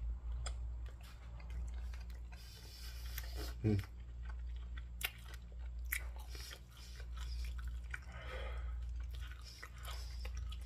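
Close-up chewing of a mouthful of curry chicken and rice, with many small wet mouth clicks and smacks. A brief hum comes about three and a half seconds in, and two breathy puffs of air come from a mouth burning from hot, peppery food.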